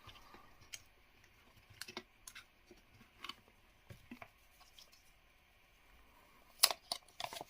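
Light clicks and taps of hands handling packaging and accessories from a phone box, scattered and faint, with a quick cluster of louder plastic clicks and crinkles near the end.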